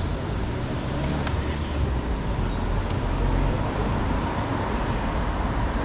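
Steady city street noise: a low rumble of traffic with no single event standing out.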